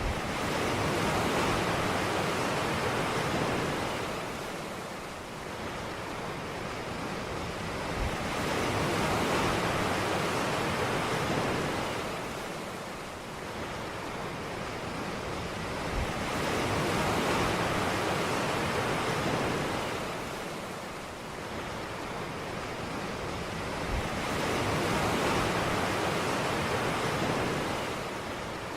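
Ocean waves washing onto a beach, each surge swelling and fading about every eight seconds, four times over.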